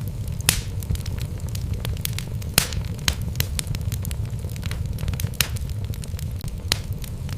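Wood fire burning in a fireplace: irregular crackles and sharp pops from the burning logs over a steady low rumble of the flames, with the loudest pops about half a second in, about two and a half seconds in and near the end.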